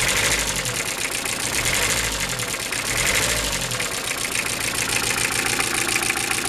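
Toyota 3C-TE 2.2-litre four-cylinder turbodiesel running with a rapid, rhythmic knock, which the owner puts down to the second cylinder. A low rumble swells twice in the first few seconds.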